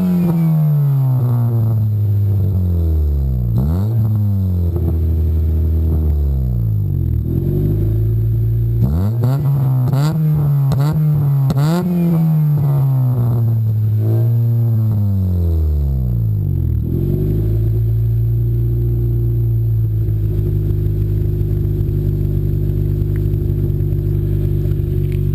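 Honda D15B7 1.5-litre non-VTEC four-cylinder, breathing through a Magnaflow high-flow catalytic converter, a resonator and an aftermarket eBay muffler, revved in a series of blips, with several quick ones in a row mid-way, then settling to a steady idle for the last several seconds.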